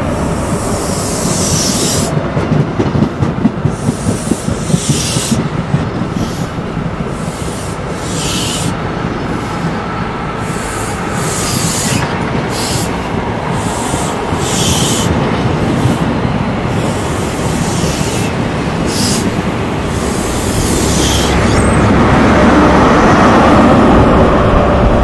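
InterCity 125 high-speed train moving along the platform, its coach wheels clacking over rail joints every second or two. Near the end the train gets louder as the Class 43 diesel power car comes by.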